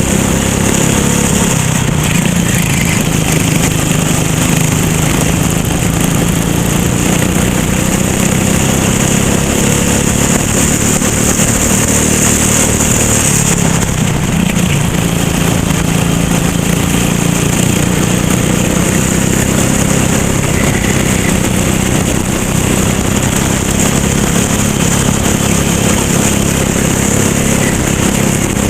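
Racing go-kart engine running hard with a steady, loud drone. Its pitch stays nearly constant and dips briefly about halfway through.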